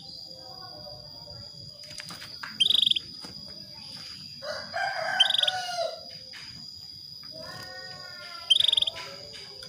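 Female canary calling in short, fast trilled bursts, three times a few seconds apart: a hen's lure call for getting a male canary to sing. Between them a lower, drawn-out bird call sounds twice, under a steady high tone.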